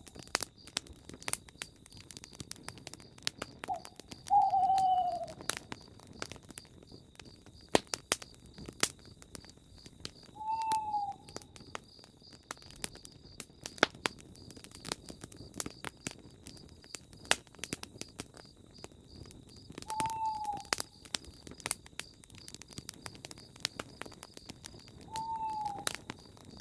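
Campfire crackling and popping, with an owl hooting four times: single falling hoots several seconds apart, the loudest about four seconds in. A steady high-pitched trill of night insects runs behind.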